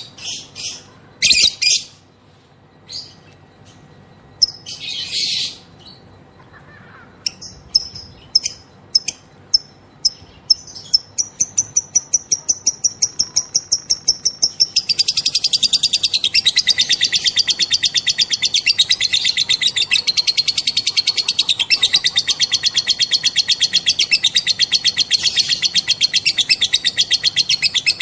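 Female lovebird calling: a few separate shrill chirps, then repeated notes that speed up into a long, fast, unbroken chattering trill (the 'ngekek') from about halfway through.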